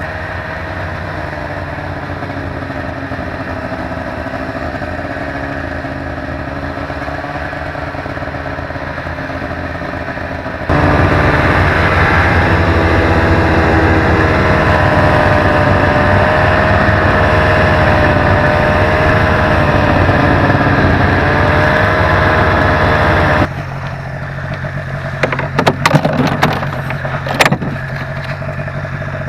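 Snowmobile engine running at a fairly steady, gently wavering pitch, much louder for a stretch in the middle that starts and stops abruptly. A few sharp knocks come near the end.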